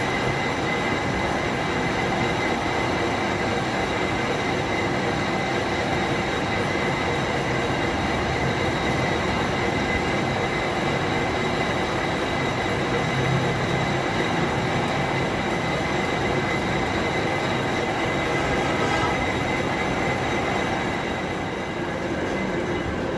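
A workshop machine running steadily, a dense mechanical rumble with a constant high whine, easing off slightly near the end.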